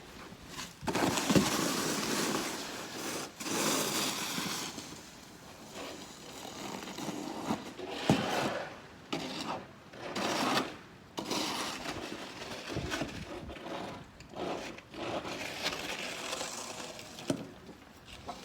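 Snow shovel scraping and pushing through snow in repeated uneven strokes, with a few sharp knocks of the blade.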